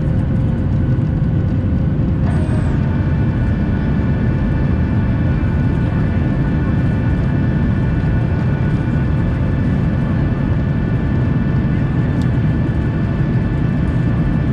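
Boeing 737 airliner's jet engines and airflow heard from inside the passenger cabin: a loud, steady rumble with a whining engine tone that shifts to a higher set of tones about two seconds in.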